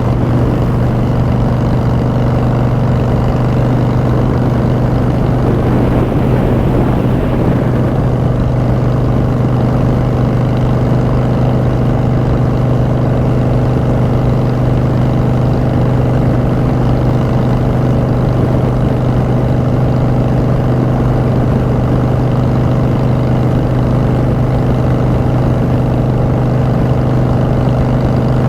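Harley-Davidson Street Bob's V-twin engine running through Vance & Hines Short Shots exhaust at a steady engine speed while cruising, with a brief rush of noise about six seconds in.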